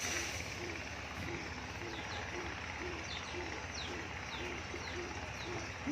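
A dove cooing: a steady train of soft low notes, a little over two a second. From about two seconds in, another bird adds short high descending chirps at a similar rate.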